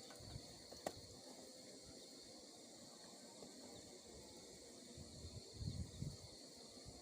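Faint, steady chirring of night insects. There is a single sharp click about a second in and a few low dull knocks near the end.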